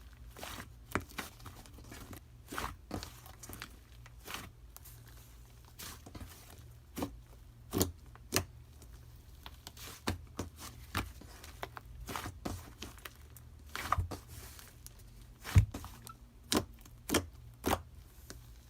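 Grapes being bitten and chewed close to the microphone: irregular short sharp pops and clicks, the loudest about fifteen and a half seconds in.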